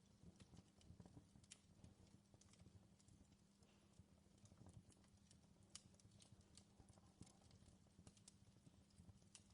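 Faint fireplace crackling: irregular small pops and clicks from burning wood over a low steady rumble.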